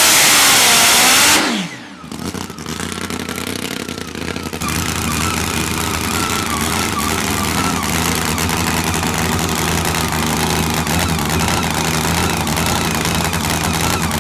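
Top Fuel drag motorcycle engine at full throttle, very loud, then shut off about a second and a half in with its pitch falling away. After that an engine runs steadily at idle.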